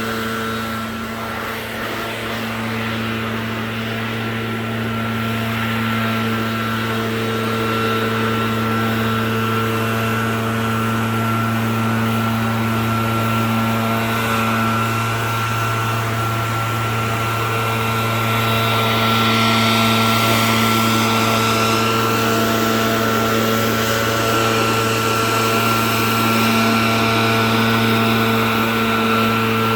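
Gasoline engine of a piece of lawn equipment running steadily at full throttle: a constant drone with a steady high whine over it, getting a little louder toward the second half.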